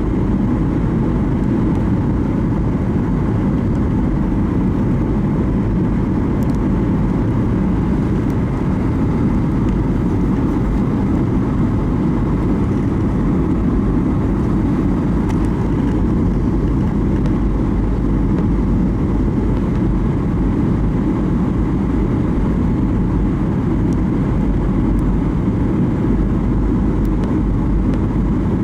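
Airliner cabin noise on the approach to landing: the steady low roar of the jet engines and rushing air, with faint steady tones above it.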